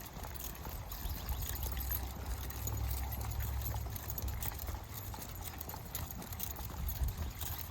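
Footsteps of a walker and a pack of dogs on a trail, a run of small clicks and scuffs. Wind rumbles on the microphone, strongest about three seconds in.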